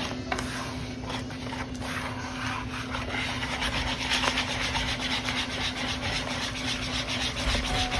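Wire whisk beating cornbread batter in a bowl: a fast, steady run of scraping strokes that grows denser and a little louder about halfway through.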